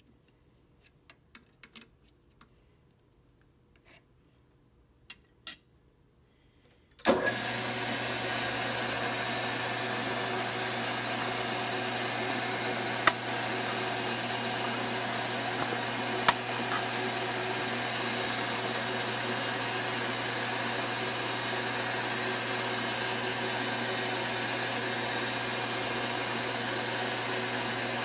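A few light clicks, then about seven seconds in a metal lathe's motor switches on suddenly and runs steadily with an even hum. Two sharp clicks sound over it a few seconds later.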